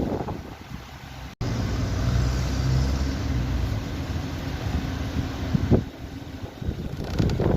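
Rustling noise that cuts off abruptly about a second and a half in, followed by the Nissan Serena C27's engine idling with a steady low hum after its spark plugs were replaced.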